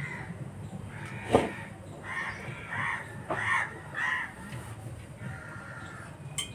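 A bird calling repeatedly: about six short calls in a row, with a single sharp knock about a second and a half in.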